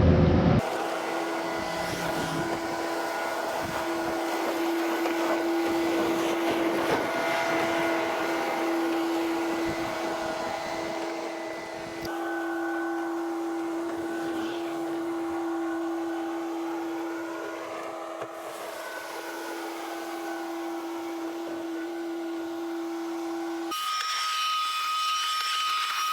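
A machine's engine runs steadily with a hum and whine, its pitch drifting up and down for a few seconds midway. The sound changes abruptly twice, at about twelve seconds and near the end, where a higher whine takes over.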